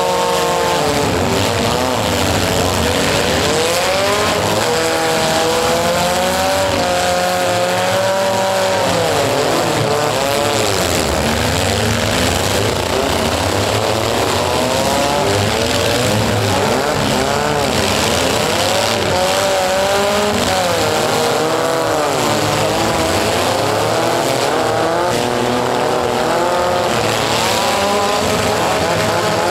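Several small four-cylinder compact-car engines revving hard at once in a demolition derby, their overlapping notes rising and falling over and over as the drivers floor them and back off.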